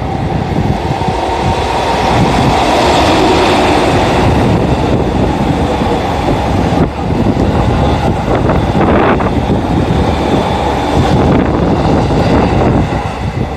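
An EF81 electric locomotive passes close by, towing a string of E231-series commuter cars on a delivery run. The cars' wheels run on the rails in a loud, continuous rumble that fades slightly near the end.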